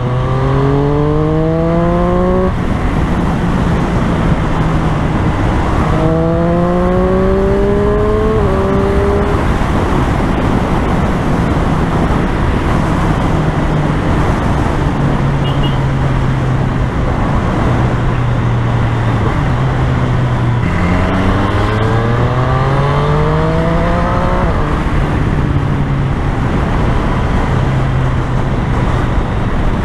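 Triumph Street Triple's inline-three engine accelerating through the gears, its note rising in three pulls (near the start, about 6 seconds in, and about 21 seconds in) and dropping back at each shift, between stretches of steady cruising. Wind and road noise rush over the rider's helmet-mounted microphone throughout.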